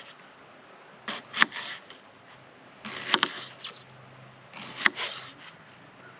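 Paring knife dicing onion on a small camp cutting board: short clusters of sharp taps as the blade strikes the board, about every two seconds.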